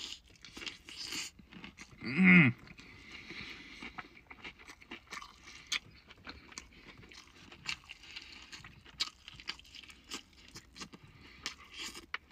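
Close-up chewing and crunching of extra-crispy fried chicken: many short, irregular crackles and chomps. About two seconds in comes one short, loud vocal sound, like a hum or grunt.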